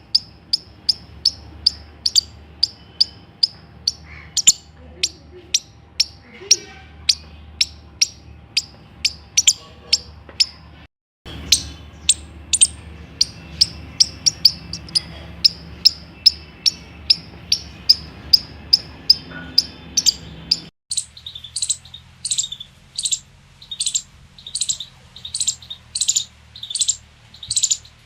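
Squirrel chirping alarm calls, short high chirps repeated about two or three times a second, each sweeping downward in pitch. The sound cuts off briefly about 11 seconds in and again about 21 seconds in, and the chirps after the second cut are higher and more widely spaced.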